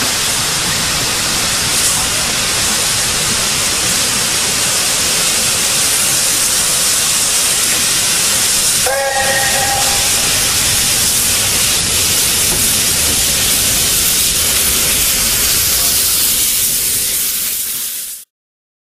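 Steam locomotive hissing steadily as steam escapes, with a short chime-like whistle lasting about a second, about halfway through. The sound cuts off suddenly near the end.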